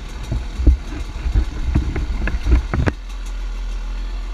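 Dirt bike engine idling, with irregular low rumbling and knocks for about the first three seconds, then a steadier low hum.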